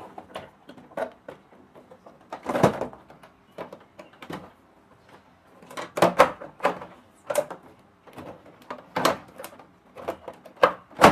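Scattered knocks, clunks and rattles of hard parts being handled during an air-conditioner installation, irregularly spaced, with the loudest knock right at the end.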